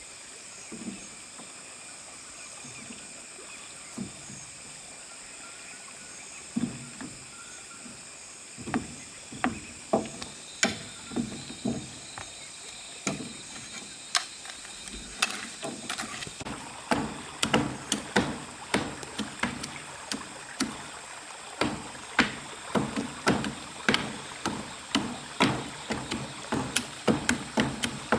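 A series of sharp knocks, sparse at first and then coming about two or three a second from midway on, over a steady high-pitched background drone.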